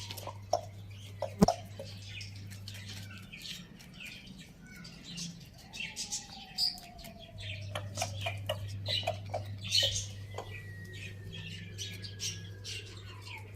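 Chickens making short chirps and calls, mixed with scattered sharp clicks, over a steady low hum that drops out about three seconds in and returns a little past the middle.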